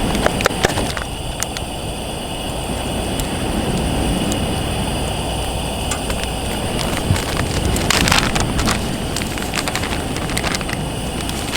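Sea wind rumbling across the microphone, with scattered crackles and pops from a wood campfire. About eight seconds in there is a short burst of hiss.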